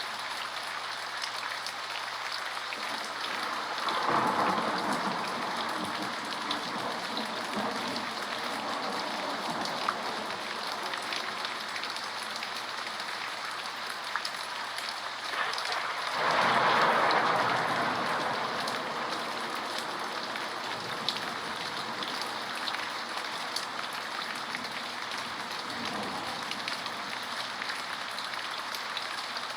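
Steady rain falling, with two swells where it grows louder and fuller for a few seconds, about four seconds in and again about sixteen seconds in.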